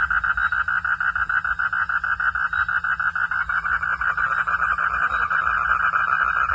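Frogs calling: a loud, steady pulsed trill, about seven pulses a second.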